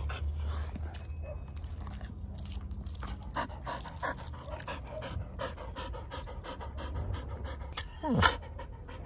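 An animal panting in quick, even breaths. About eight seconds in, a brief, louder sound slides steeply down in pitch.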